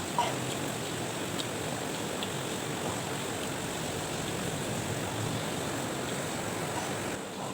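Steady rushing background noise, with a faint high whine, a sharp click just after the start and a few faint ticks.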